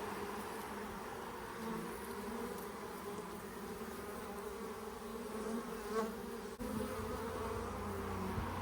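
A swarm of honeybees buzzing close by, a steady drone of many bees.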